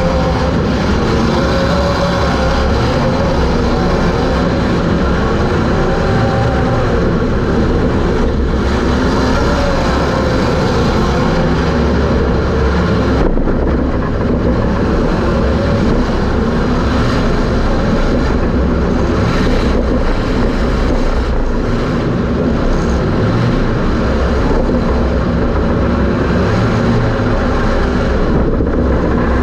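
Super Stock race car's engine heard from inside the car, loud and constant under a rush of road and wind noise, its pitch wavering up and down through the first half as the throttle is worked.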